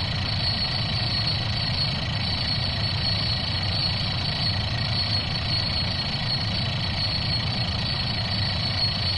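Engine sound effect played for a toy vehicle: a motor vehicle engine running steadily at idle, with no revving.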